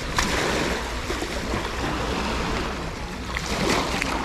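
Small waves washing onto a sandy beach: a steady wash of surf that swells up twice, once near the start and once near the end.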